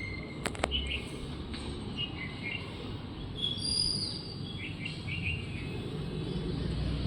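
Small birds chirping in short, scattered calls over a steady low traffic rumble, with a couple of sharp clicks about half a second in.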